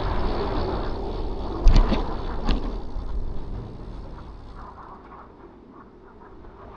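Wind rumbling on the microphone while cycling, with a few sharp knocks about two seconds in; the rumble eases off over the second half.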